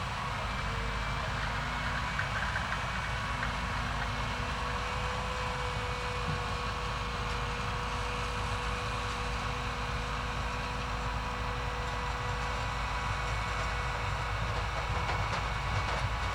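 Holmer Terra Dos T4-40 self-propelled sugar beet harvester running steadily: a low engine drone with a constant machine whine over it.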